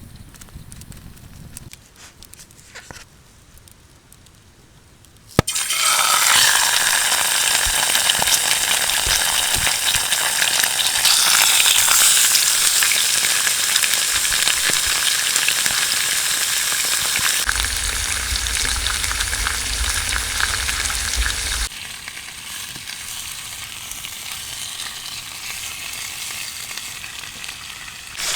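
Food sizzling loudly in a hot frying pan, starting suddenly about five seconds in after a few quiet clicks, then continuing as a steady hiss that drops somewhat in level near the end.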